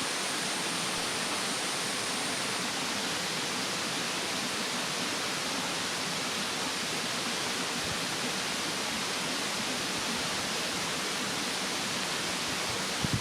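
Steady rushing of a mountain stream under a burning wood bonfire, with a few sharp crackles from the fire near the end.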